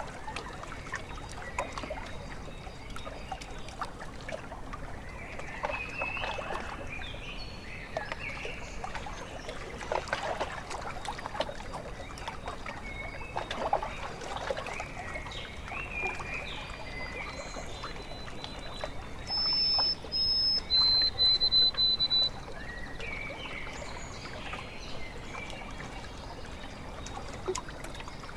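Lakeside ambience: water lapping and trickling at the shore, with many birds calling throughout. About two-thirds of the way through, a loud, clear whistled bird call: two high notes, then a lower held note.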